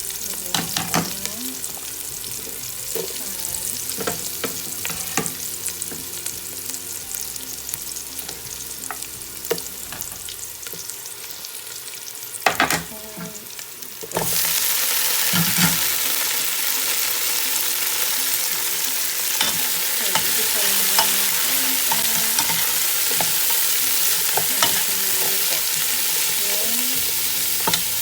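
Food frying in hot oil in a pan, sizzling steadily, with a utensil stirring and clicking against the pan. About halfway through, the sizzle suddenly grows much louder and stays that way.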